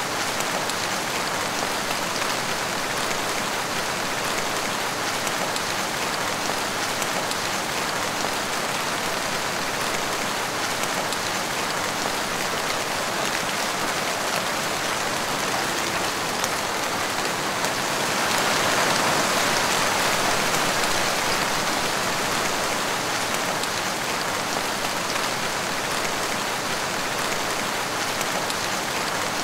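Steady rain falling and splashing on a wet tiled porch floor. The rain swells a little louder for a few seconds about two-thirds of the way through, then settles back.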